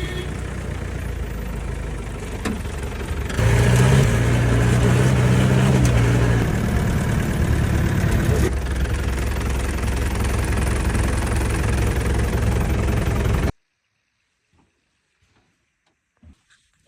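A motor vehicle's engine running, growing louder about three seconds in with a slightly rising pitch, as if pulling away or speeding up. It stops abruptly near the end, leaving near silence with a few faint clicks.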